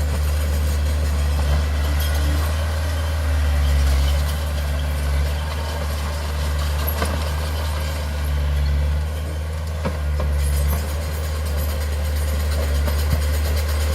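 Heavy diesel engine of a bulldozer or dump truck running steadily, its low drone swelling and easing, with a couple of light clanks.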